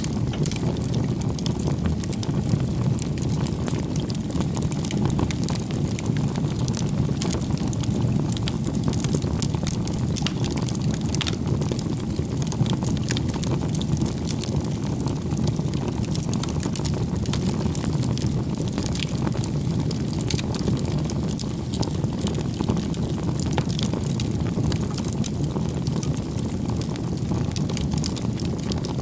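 Wood fire burning: a steady low rush of flames with frequent small crackles and pops throughout.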